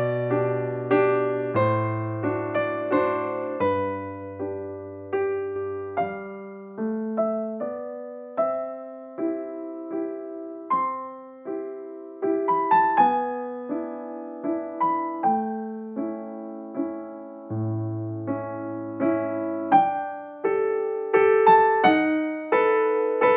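Background piano music: a slow, gentle melody of struck notes over sustained bass notes.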